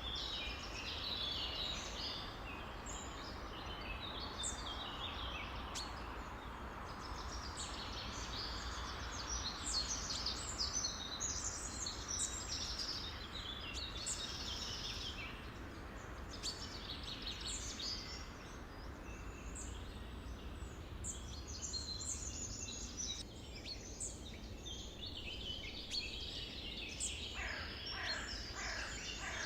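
Many birds chirping and singing at once, a dense chorus of overlapping short calls and trills over a steady low background rumble.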